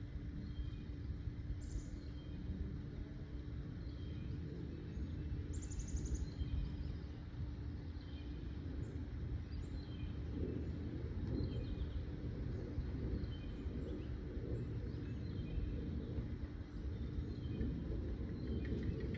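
Birds chirping faintly in short scattered calls over a steady low rumble, with a low hum that stops about three-quarters of the way through.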